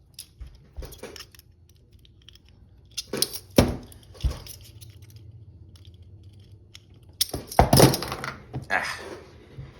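Metal clicks and clanks of handcuffs being worked with a lock pick. They come in separate clusters: a small one about a second in, more around three to four seconds, and the loudest near the end.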